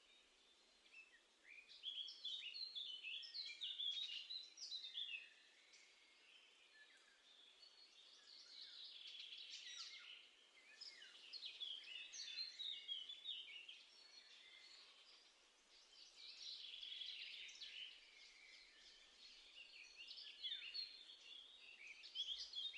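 Small songbirds singing and twittering in several short bouts of quick, high chirps and trills, with quieter gaps between.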